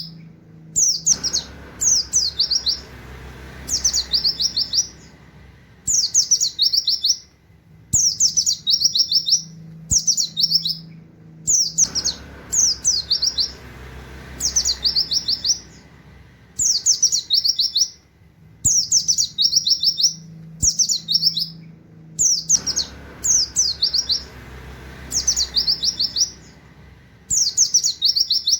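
Pleci (white-eye) singing its fast 'nembak' song: short bursts of quick, high chattering notes, repeated every one to two seconds.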